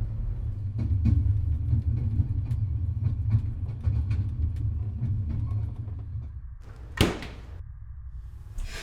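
A steady low rumble that fades out, followed by a single sudden, short noise about seven seconds in.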